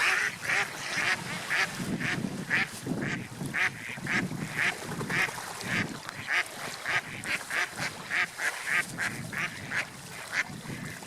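Gulls calling in short, repeated squawks, about two a second, over the low rush of the sea.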